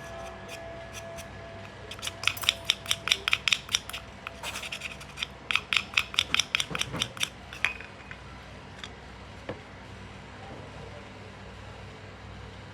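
Rapid run of small metallic clicks, about six a second, from an antique Junghans clock movement being worked by hand. The clicks come in two bursts, from about two seconds in to nearly eight seconds in, with a short break between them.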